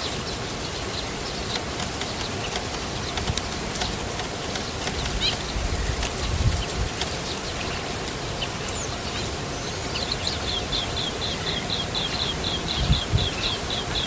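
Small birds in a nest chirping with short, high chirps, typical of nestlings begging for food. The chirps are scattered at first, then from about ten seconds in come as a fast run of about four or five a second. A low rumbling noise rises and falls underneath.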